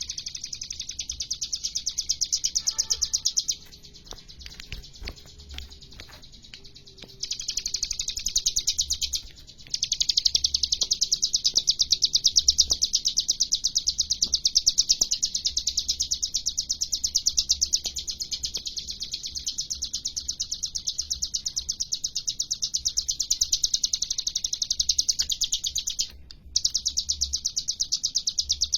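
Ciblek gunung (a prinia) singing long, very fast trills of rapidly repeated high notes, a 'tembakan' burst song. It pauses for a few seconds about three and a half seconds in, and twice more only briefly.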